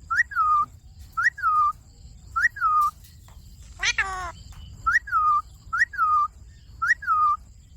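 Indian ringneck parrot whistling the same short phrase about six times, each a quick upward note followed by a falling slur. One harsher, falling call cuts in about four seconds in.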